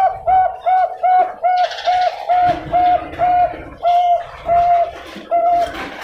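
Bangkok-strain zebra dove (perkutut) cooing: a run of about a dozen short, same-pitched coo notes, quick at first (about three a second) and spacing out toward the end, stopping just before the end.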